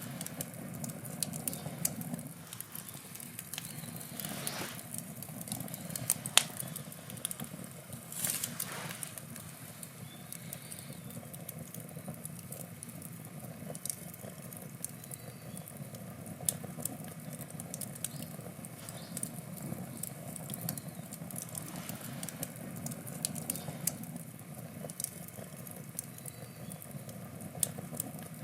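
Wood campfire burning: scattered crackles and sharp pops over a steady low hiss, a few louder pops several seconds in.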